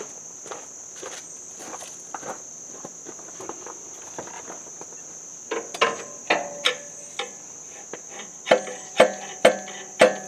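Hammer tapping on metal, the alternator being knocked across to line up its mounting bolt. Faint light taps are followed by two runs of about four sharp, ringing knocks, roughly half a second apart, in the second half, over a steady high insect drone.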